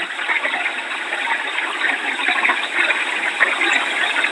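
Heavy hurricane rain pouring down, a steady rushing hiss.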